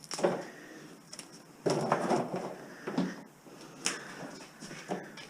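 Scattered knocks and clatter of someone handling wire and building material by hand, with a longer scraping rustle about two seconds in.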